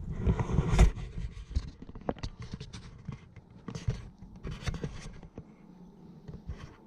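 Irregular rustling and scraping handling noise with scattered sharp clicks, busiest in the first second.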